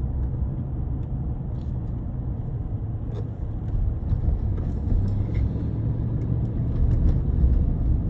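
Steady low rumble of a car's engine and road noise, with a few faint clicks.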